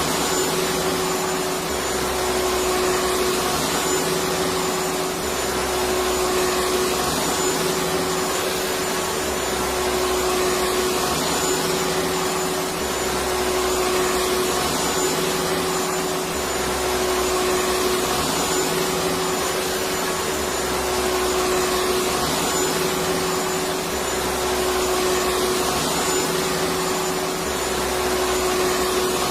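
Vacuum cleaner running steadily, a continuous whooshing drone with a steady hum and a slight swell in loudness about every four seconds.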